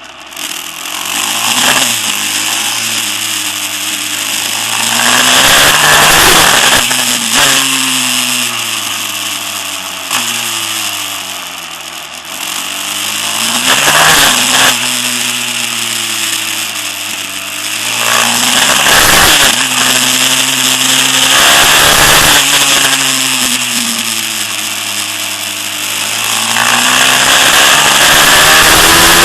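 Pit bike's 190cc Daytona single-cylinder engine being ridden hard, its pitch rising and falling again and again every few seconds as the rider opens and closes the throttle through gear changes and turns.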